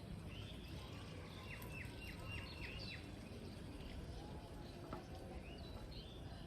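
Wild birds chirping over a steady low background rumble. About a second and a half in, one bird gives a quick run of about six short, falling, high notes.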